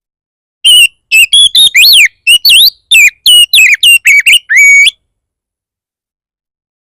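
Oriental magpie-robin singing aggressively: a rapid run of loud, short whistled notes that sweep up and down, lasting about four seconds before it stops. This is the fierce 'bar bar' song that keepers play as a lure to provoke other magpie-robins into answering.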